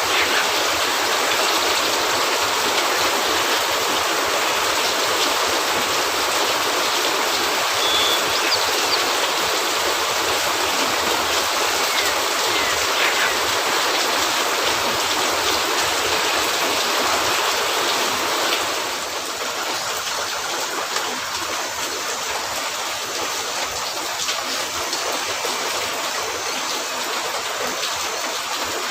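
Steady, dense rain hiss, rain falling on a cabin roof and its surroundings, dropping a little in level about two-thirds of the way through.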